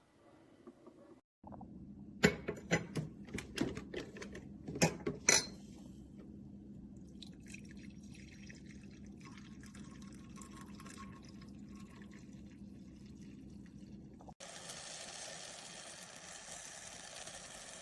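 Drip coffee maker brewing: a steady trickle and hiss of water, with a run of sharp clicks and knocks a couple of seconds in. About fourteen seconds in the sound cuts abruptly to a brighter, steadier hiss.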